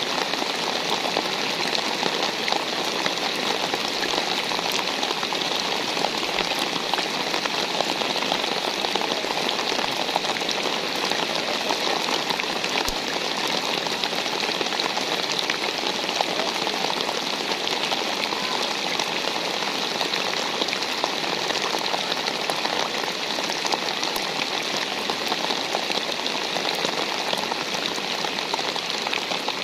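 Steady heavy rain, a dense even patter of drops on surfaces with no let-up.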